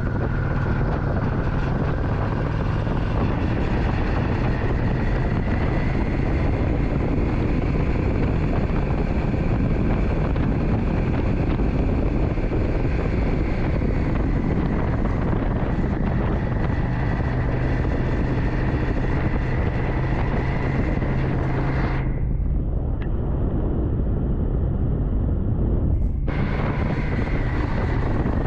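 Motorcycle riding at a steady cruising speed: an even engine drone with a faint high whine under heavy wind rush on the microphone. The hiss turns duller for about four seconds near the end.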